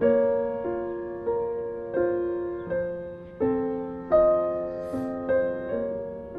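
Background solo piano music: slow, gentle notes struck about every two-thirds of a second and left to ring out.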